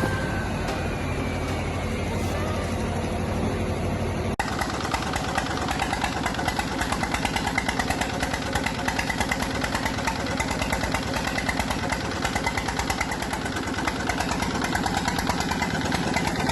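Engine of corn-harvest farm machinery running steadily; about four seconds in the sound changes abruptly to a dense, rapidly pulsing engine note.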